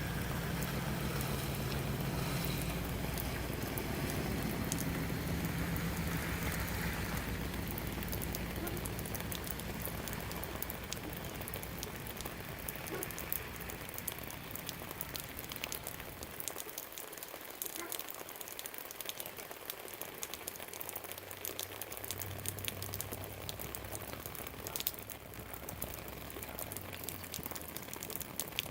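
Steady rain with many separate drops falling. A low rumble underneath in the first half fades away about halfway through, and a fainter rumble returns near the end.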